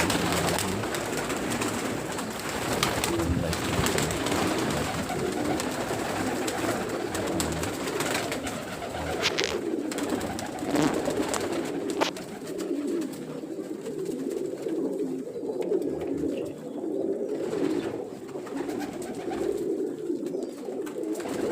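Domestic pigeons cooing continuously, several birds overlapping in a low, warbling murmur. A few sharp clicks stand out about halfway through.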